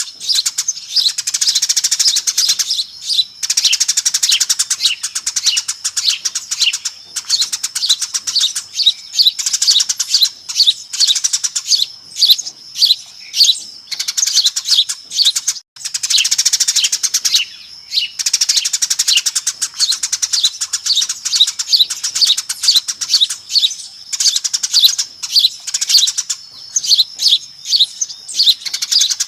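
A flock of Eurasian tree sparrows chirping noisily, dense overlapping short chirps with a momentary break about sixteen seconds in.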